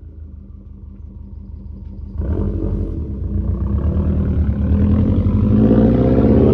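2021 Subaru WRX STi's turbocharged EJ257 flat-four running through a Remark muffler-delete cat-back with a non-resonated mid pipe. It rumbles low for about two seconds, then the exhaust note jumps in loudness and climbs steadily in pitch as the engine revs up under load.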